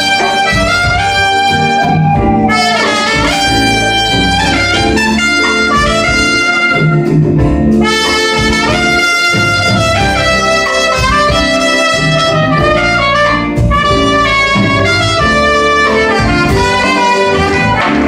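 A band's horn section, saxophone and trumpet, playing a jazz melody line with a rhythm section underneath.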